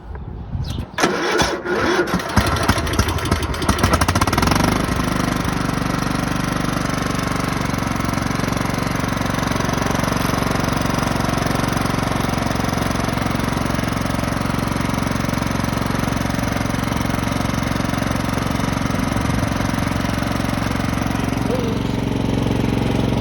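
Craftsman lawn tractor's 15.5 hp overhead-valve engine being cranked by the starter with the choke on, uneven for about four seconds before it catches, then running at a steady speed.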